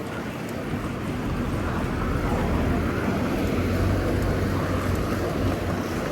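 Steady rumble of wind on the microphone and street traffic while cycling, swelling to its loudest about four seconds in.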